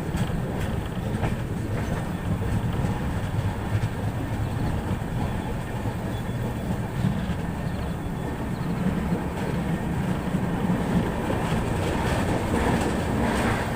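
Netravati Express passenger train running along the track, a steady rumble of the moving coaches, with wheels clacking over rail joints a few times, more near the end.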